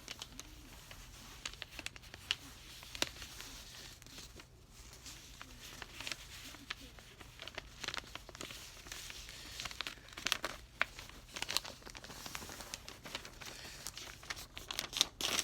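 A sheet of paper being handled and folded, with irregular crinkling and rustling and short crisp crackles as the creases are pressed, busiest about two thirds of the way through and near the end.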